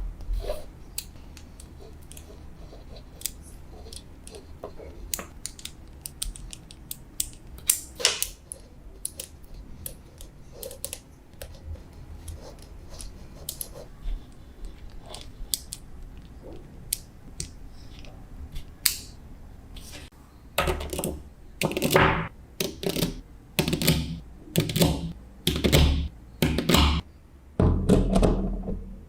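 Small magnetic balls clicking as they snap together. Single clicks come now and then, and from about twenty seconds in there is a denser, louder run of clacks and knocks.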